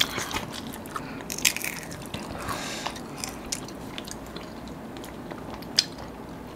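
Close-up eating sounds: crunchy fried chicken being bitten and chewed, with many short crackles and mouth smacks and one sharp click near the end.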